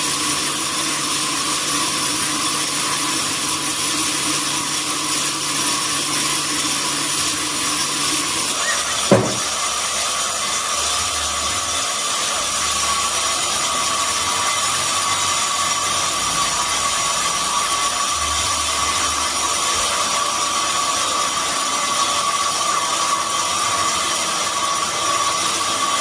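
Sawmill machinery running steadily with a high whine, as durian wood is sawn. One sharp knock comes about nine seconds in.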